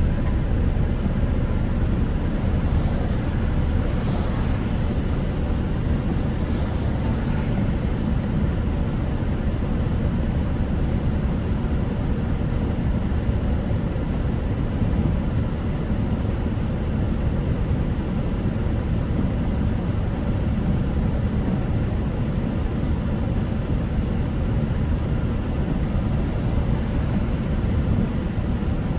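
Steady low road and engine noise heard from inside a moving car driving on wet roads in the rain.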